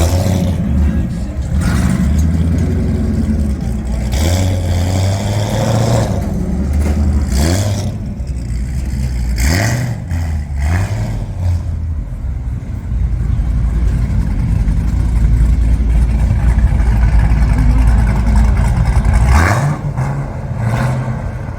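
Car engine running with a deep low rumble, the revs rising and falling several times.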